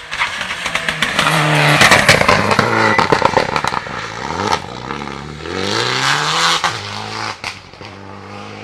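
Rally car passing at speed on a stage, engine at high revs. A quick run of sharp cracks comes as it goes by. The revs then fall and climb again through gear changes as it pulls away, fading near the end.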